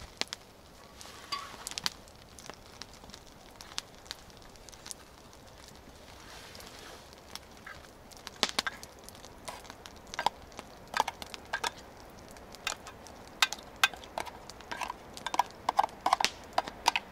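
Metal spoon scraping and clinking in a pot of hot rice and vegetables over a campfire, in irregular strokes that come thicker in the second half. The food has scorched a little on the bottom.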